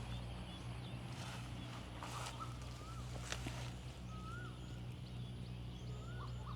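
Quiet rural ambience: a few faint, short rising-and-falling bird calls, spaced a second or so apart, over a low steady hum, with a couple of faint rustles near the start.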